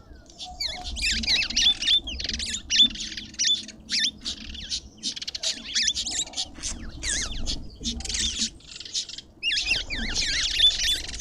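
Several birds chirping and squawking at once, a busy chatter of short, overlapping calls with quick up-and-down notes, coming in dense clusters.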